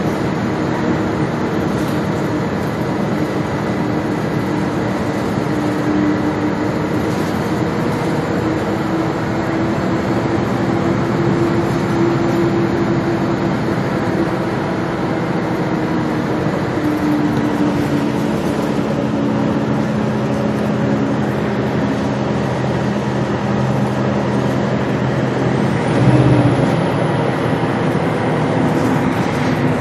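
Gillig Low Floor transit bus under way: engine and drivetrain running with a steady rumble and tones that slowly rise and fall in pitch as the bus speeds up and eases off, over road noise. A single low thump, like the bus going over a bump, comes near the end.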